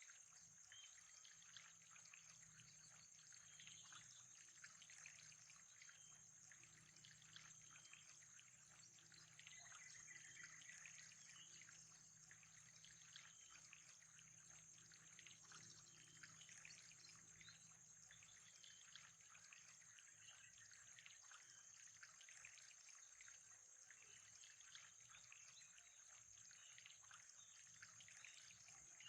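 Faint, steady trickling water with a continuous high-pitched whine.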